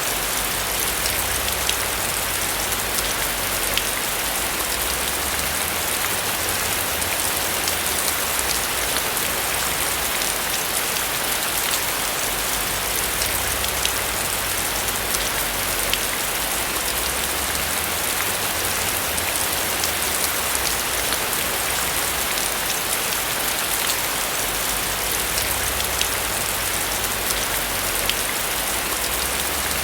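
Steady rain falling on a roof, an even hiss with individual drops ticking sharply here and there.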